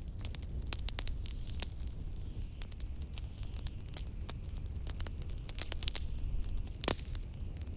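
Wood fire crackling with many small irregular pops and one louder pop about seven seconds in, over a steady low rumble of blizzard wind.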